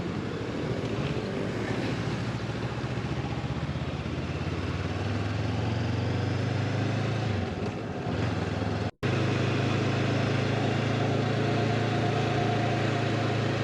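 Honda motorcycle engine running steadily at low revs; its note shifts about seven seconds in, and the sound drops out for an instant about nine seconds in.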